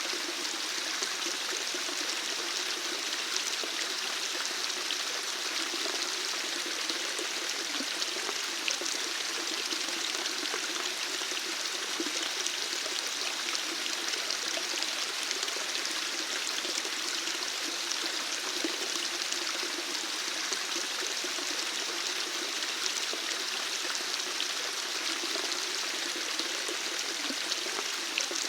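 Water running in a steady, unbroken flow with a continuous rushing trickle.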